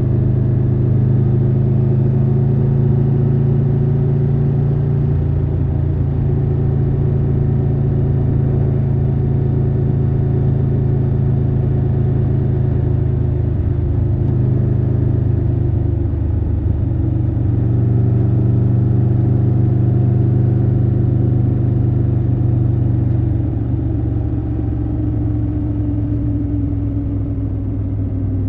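Triumph Tiger 1200 Rally Pro's 1160 cc inline-three engine running under way, heard raw from the rider's position. The engine note holds steady, sags briefly around the middle, then picks up again, and its pitch slowly falls over the last few seconds as the bike slows.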